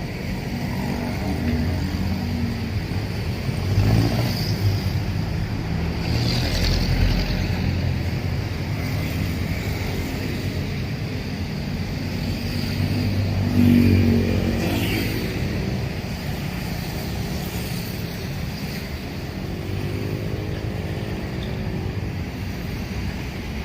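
Road traffic: cars and motorcycles passing with engines running. One vehicle passes loudest about fourteen seconds in.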